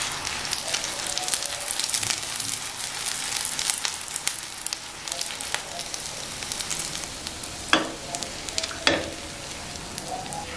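Shami kababs shallow-frying in a little oil in a non-stick pan: a steady sizzle full of small crackling spatters. Near the end come two sharper strokes, a spatula against the pan.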